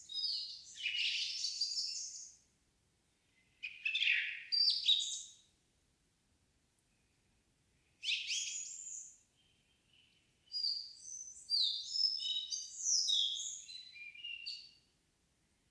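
Songbird song in the evening forest: rapid, varied whistled phrases, with four phrases of about one to four seconds each separated by near-silent pauses.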